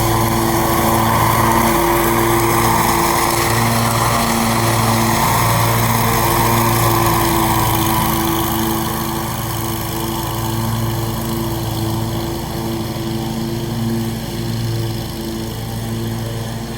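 Scag mower's new Briggs & Stratton engine running steadily under test, with a rushing noise over the engine note that eases off about halfway through.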